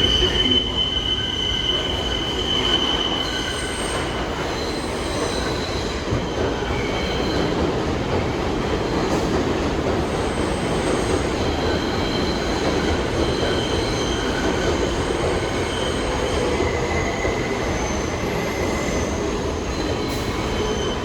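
New York City subway train moving along the track with a steady rumble, its wheels squealing in high, whistling tones that come and go; the loudest squeal is in the first few seconds.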